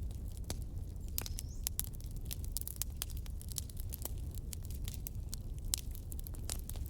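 Wood fire crackling, with many sharp, irregular pops several times a second over a steady low rumble of the flames, and a short high whistle about a second in.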